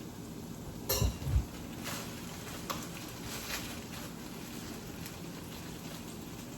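Ground pork and sliced hot dogs frying in a pan, a steady sizzle, with two dull thumps about a second in and a few light clicks.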